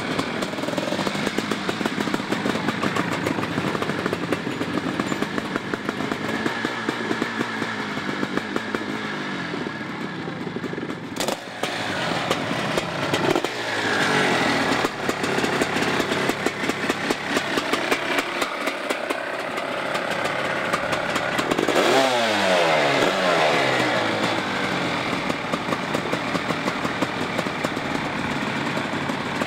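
Sidecar motocross outfits' engines running, mostly ticking over with blips of the throttle; one engine is revved and drops back about 22 seconds in.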